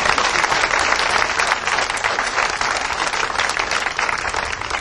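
A crowd applauding: dense hand clapping that gradually thins out near the end.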